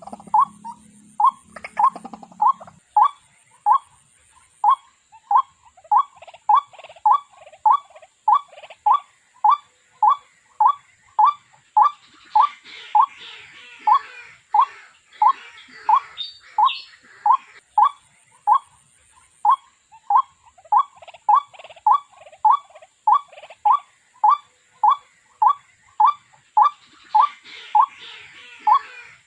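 Waterhen calling: a single short note repeated steadily, a little under two a second, with fainter chirps of other birds behind it.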